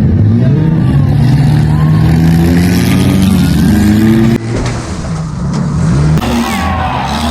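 Demolition derby car engines running and revving hard, their pitch rising and falling. The sound drops abruptly about four seconds in, then carries on with shifting engine pitches.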